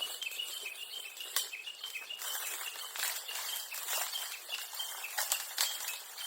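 Japanese bush warbler calling: a rapid run of short, evenly repeated high notes following a long held whistle, over a high background hiss, with a few sharp clicks.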